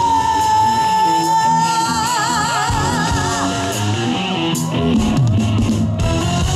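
A live pop-rock band song with a female singer holding a long high note with vibrato over sustained band chords. A run of drum and cymbal hits comes in about four and a half seconds in.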